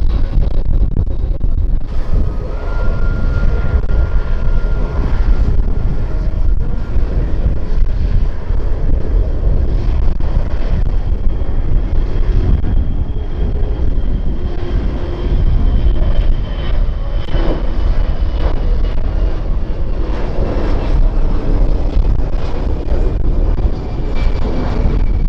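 Jet airliner engines running loud as an aircraft passes, a heavy rumble with a thin high engine whine that slowly falls in pitch through the second half.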